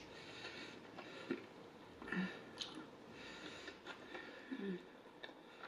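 Faint closed-mouth chewing of a bite of chili cheese hot dog, with soft wet mouth sounds and a couple of short, quiet hums.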